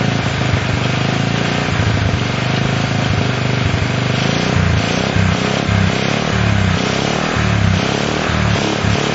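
Honda CL70's small single-cylinder four-stroke engine running at about idle, its speed wavering unevenly in the second half. It will not settle into a normal idle: set with the idle screw almost all the way in, it runs too high.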